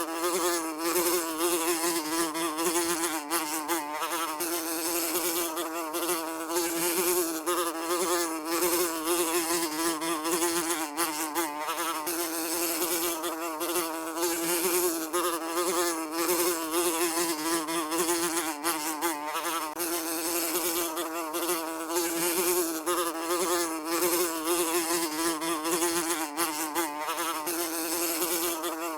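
A fly buzzing continuously, a steady wingbeat hum whose pitch wavers slightly as it flies.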